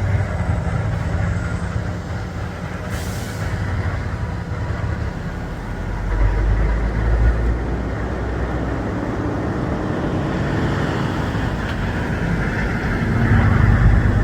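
Heavy truck engine running with a steady low rumble, which grows heavier about halfway through, and a brief hiss about three seconds in.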